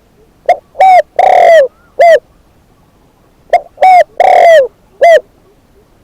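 A decoy spotted dove cooing loudly and close by: two four-note phrases, each a short note, a longer one, a long loud one and a short closing note, about three seconds apart.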